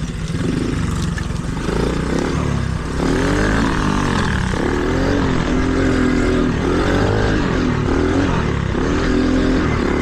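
Small 110cc Chinese pit bike engine being ridden hard, revving up and down with the throttle every second or so, louder from about three seconds in.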